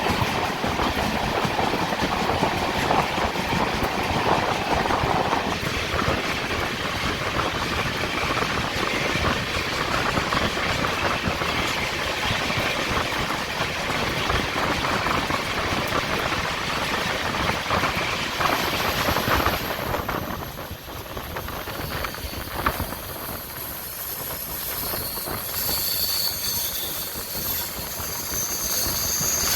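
Passenger train coaches running on the track, a steady rumble and rattle of wheels on rails. About two-thirds of the way through it drops quieter, and thin high-pitched wheel squeal builds up near the end, typical of wheels on a curve in the ghat descent.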